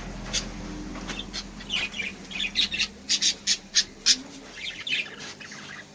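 Caged pet birds calling in short, sharp chirps and squawks, coming thick and fast through the middle and thinning out near the end, over a steady low hum.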